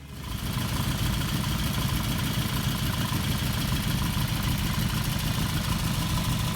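Motorcycle engine idling steadily, a dense low rumble with rapid, even firing pulses.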